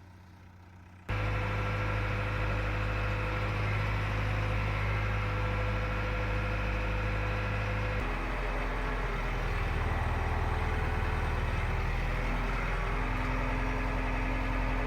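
JCB 3DX Eco backhoe loader's diesel engine running steadily, coming in abruptly about a second in; its low note drops and settles about eight seconds in.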